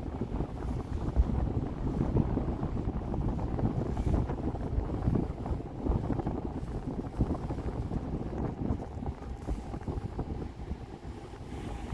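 Wind buffeting the microphone aboard a harbour ferry under way, over a low rumble of the ferry and the water it moves through. A faint steady hum comes in about halfway through.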